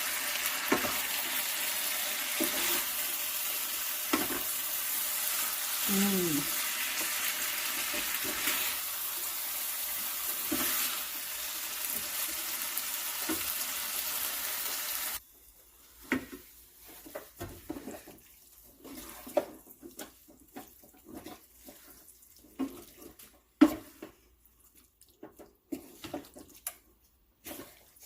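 Curry chicken frying in a pot, a steady sizzle that cuts off abruptly about halfway through. After that, light scattered knocks and taps, like utensils being handled.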